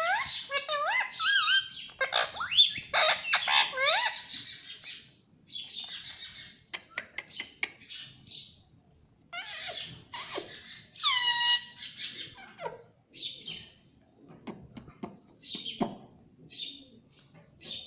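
Pet parrot chirping, whistling and squawking in a quick series of short calls, several of them whistles that slide up and down in pitch, with brief pauses between bursts.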